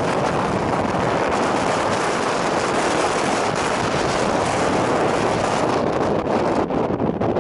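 Strong wind buffeting the microphone: a loud, steady rushing roar that eases slightly near the end.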